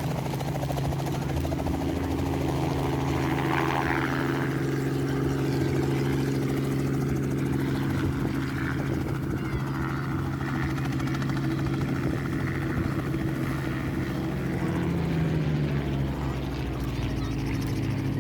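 Robinson R44 Raven II helicopter landing: its six-cylinder piston engine and two-blade rotor run with a steady, even drone, and the pitch slides briefly near the end.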